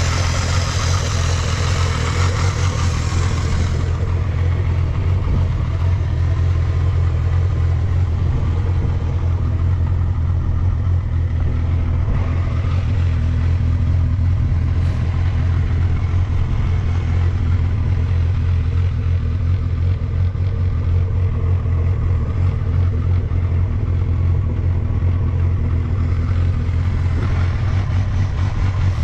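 1992 Honda Jade 250's inline-four engine idling steadily, running smoothly with no abnormal noise. A brighter hiss over it drops away about four seconds in.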